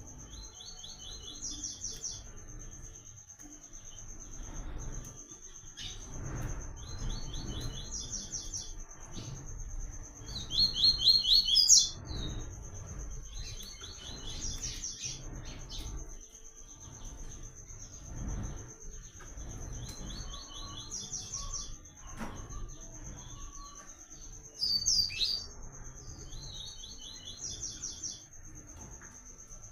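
Papa-capim (coleiro seedeater) singing short repeated phrases, each a quick run of clean notes that rises at the end, about every three to four seconds, two of them much louder than the rest. A steady high whine runs underneath.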